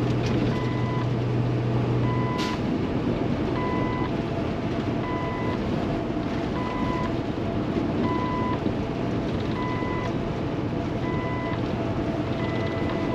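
Cab noise of a Kenworth T680 semi-truck driving on wet road: a steady engine and road drone, with a short electronic beep repeating about every second and a half. A strong low hum drops away about two seconds in, with a single sharp click just after.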